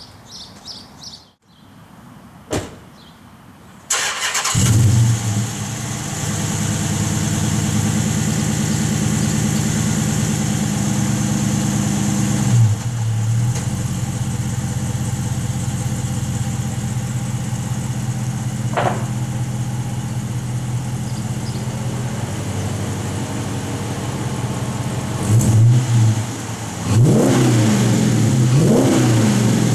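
Dodge Charger R/T's 5.7 L Hemi V8 through Magnaflow oval mufflers with the resonators deleted and a cold air intake: after a few quiet seconds with a click or two, the engine starts with a loud flare about four seconds in and settles into a steady, deep idle. A short blip comes about halfway through, and several revs rise and fall near the end.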